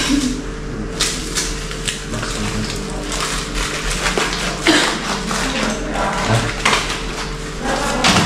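Medicine packets and pill packaging being handled: irregular rustling, crinkling and small clicks, over a steady low electrical hum.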